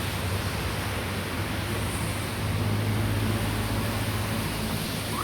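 Boeing 767-300ER on final approach: the distant, steady rumble of its twin jet engines, a broad rushing noise over a low hum, swelling slightly midway.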